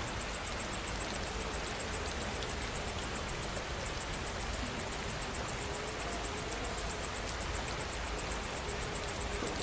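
Steady rain falling, an even hiss, with an insect chirping high in a fast, even pulse of several chirps a second that breaks off briefly a little under four seconds in.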